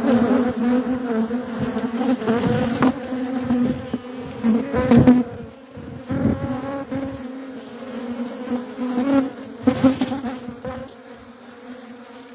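Honeybee colony buzzing: a steady, dense hum, broken by a few short thumps and rustles of handling.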